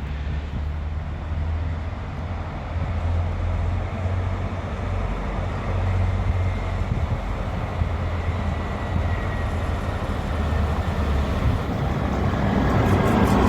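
Train running in the station: a steady low rumble with a faint high whine in the middle, growing louder near the end.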